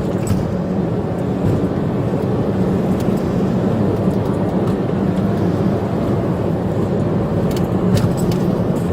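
A car driving at speed, with steady engine and road noise and a few faint clicks near the end.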